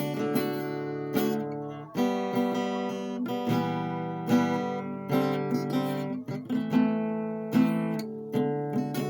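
Background music of a strummed acoustic guitar playing chords, with about one strum a second.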